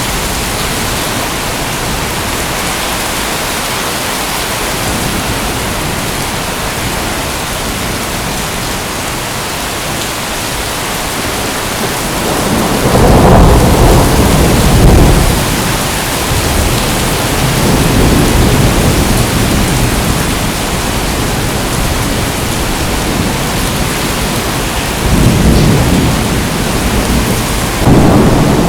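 Steady heavy rain hissing, with rolling thunder rumbling in at times: loudest just past halfway through and again near the end.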